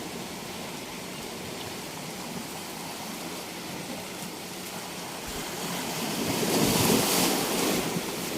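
Ocean waves washing on a beach: a steady rush of surf, with one wave swelling louder and breaking about two-thirds of the way in, then easing off.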